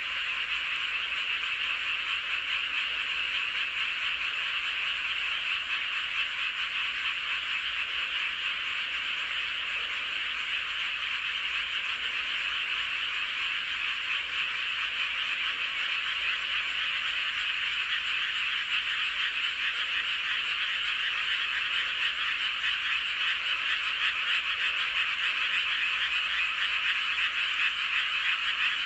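Dense chorus of many frogs calling at once, a steady unbroken mass of overlapping croaking calls that grows slightly louder near the end.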